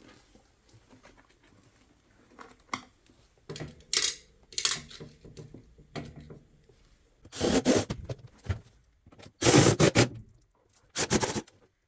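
Irregular scraping, rubbing and knocking as the home theatre unit's casing and parts are handled and put back together, with several louder scrapes in the second half.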